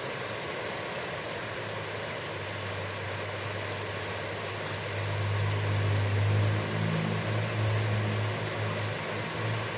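Steady hiss of heavy rain falling on a pond. Under it a low engine drone sets in about two seconds in and grows louder past the middle.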